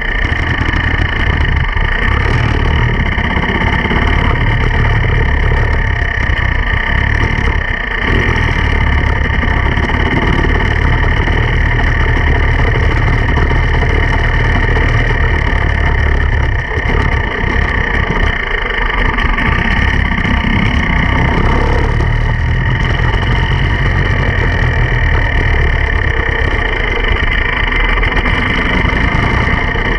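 Enduro dirt bike engine running steadily, with a constant whine of sustained tones high up and a heavy low rumble.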